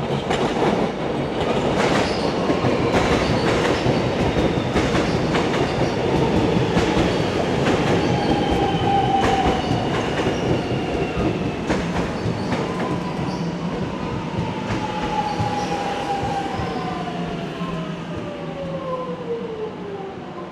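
Suburban electric train pulling into an underground station platform, its wheels clacking, then a whining tone that falls steadily in pitch as the train slows, the sound easing off toward the end.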